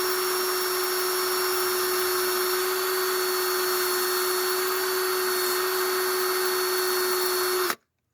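Cordless drill spinning a wire wheel at a steady speed, with a constant whine and a hiss of wire brushing. It cuts off suddenly near the end.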